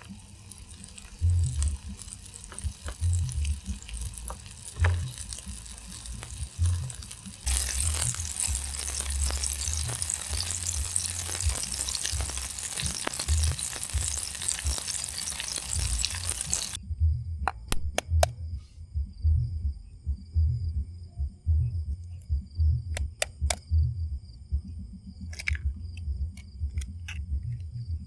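Soft background music with a low, regular beat. From about 7 s to 17 s, a loud, steady sizzling hiss of food frying in a pan over the camp fire. It then cuts off suddenly to a quieter bed of steady high-pitched tones and scattered sharp clicks.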